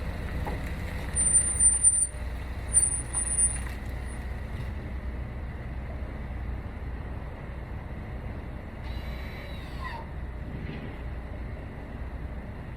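2015 Lincoln MKC's 2.0-litre EcoBoost turbocharged four-cylinder idling after a cold start, a steady low hum. Twice in the first few seconds it is joined by short, loud, very high-pitched squeaks.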